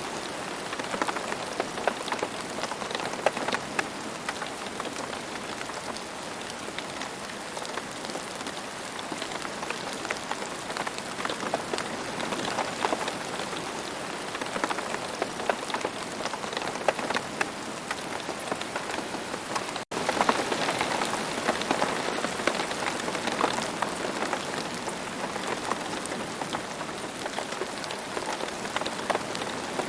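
Steady rain falling on the ground: a dense, even patter of raindrops with many small, distinct drop ticks. The sound cuts out for a split second about two-thirds of the way through.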